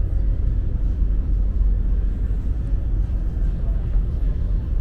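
Steady low rumble of a car ferry's engines and hull, heard inside the passenger cabin while under way.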